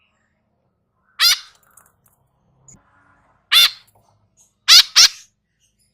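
Young bird (nestling) giving short, harsh calls: one about a second in, another past the middle, then a quick pair of calls near the end.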